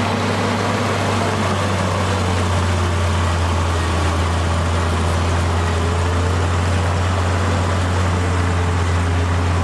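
Heavy diesel engine of earthmoving machinery running steadily with a deep, even hum and no change in pitch.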